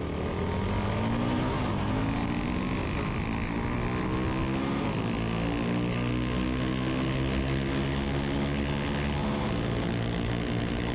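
Suzuki DRZ400S single-cylinder four-stroke engine running under way at cruising speed, its pitch rising a little over the first couple of seconds as it picks up speed, then holding steady.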